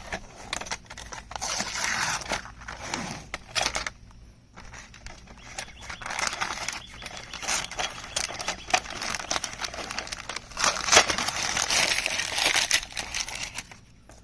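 Protective plastic film being peeled off a part and crinkling, an uneven crackle with many small clicks that eases off briefly around a third of the way in and fades out just before the end.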